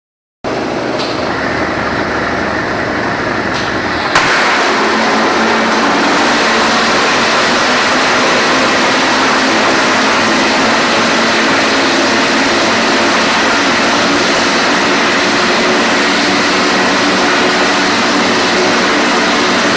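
Small pulsed detonation engine running on propane and oxygen, firing about ten detonations a second as a continuous harsh rattle. It starts abruptly and jumps louder with a sharp crack about four seconds in.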